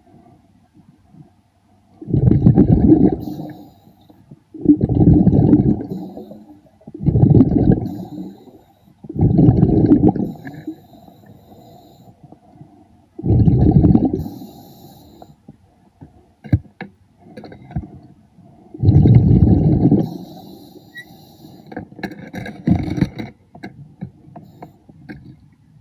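A scuba diver's regulator exhaust underwater: bursts of exhaled bubbles, each about a second long, coming every two to four seconds in a breathing rhythm, with a few faint clicks between them.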